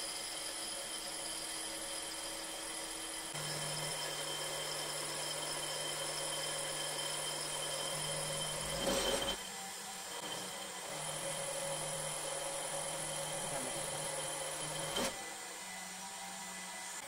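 An electric power tool or machine motor running steadily. Its tone changes about three seconds in, and there is a brief louder burst near the middle and a short sharp click about fifteen seconds in.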